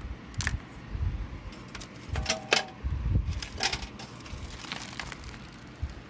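Portable washing machine parts being handled: a string of irregular sharp clicks and knocks with low thumps and rustling in between, busiest in the first four seconds.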